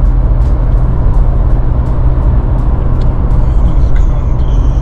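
Steady, loud rumble of a moving car's engine and road noise.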